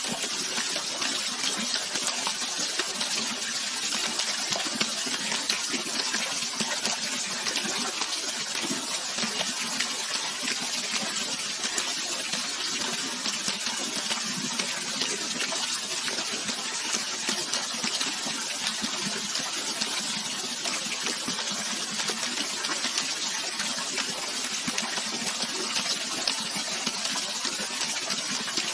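Steady running water: an even, unbroken rush, mostly high and hissy with little bass.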